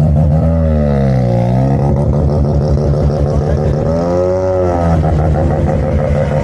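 Car engine running loudly over a steady idle, its pitch dipping and climbing back about a second in, then rising and falling again in a rev about four seconds in.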